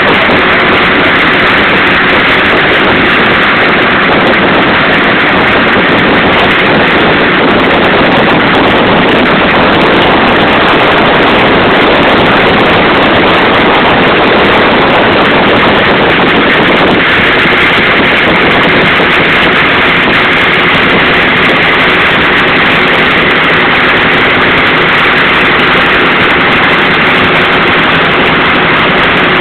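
Engine of a river boat running steadily under way, a loud even drone with a faint steady hum, mixed with wind rushing over the microphone.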